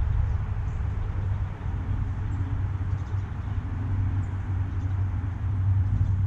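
Steady low outdoor rumble, with a few faint, short high chirps from small birds at a feeder.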